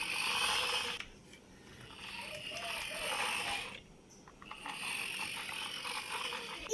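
Plastic toy vehicle being pushed along by hand, its wheels and gears giving a fast ratcheting whirr in three runs with short pauses between.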